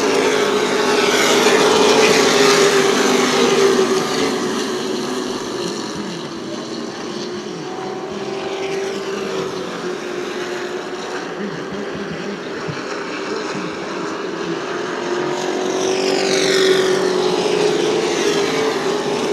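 Super Truck V8 race engines running flat out around a short oval track, with several trucks passing and fading. The sound is loudest near the start and swells again as the pack comes back past near the end.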